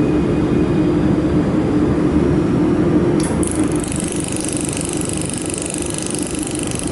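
Laser welding machine running with its fan and chiller giving a steady hum. About three seconds in, a high, fast buzzing starts and keeps going.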